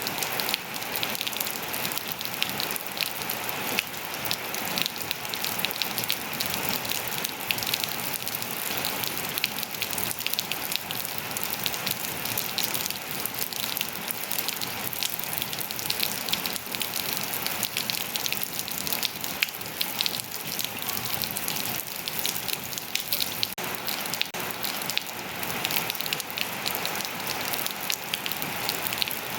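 Steady rain falling and pattering on surfaces, a dense even hiss with many small drop impacts.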